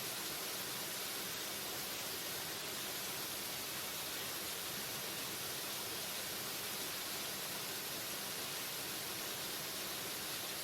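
Waterfall: a steady, unbroken rush of falling water, hissy and even, with little low rumble.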